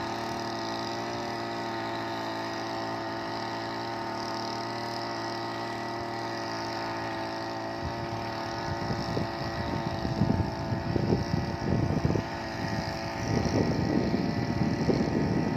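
Small petrol engine of a two-row paddy weeder running at a steady speed. From about halfway through, irregular low rumbling buffets join in over the engine.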